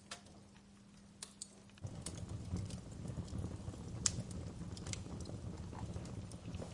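Wood fire crackling, with sharp irregular pops, the loudest about four seconds in. About two seconds in, a dense low flame noise comes in abruptly under the crackle.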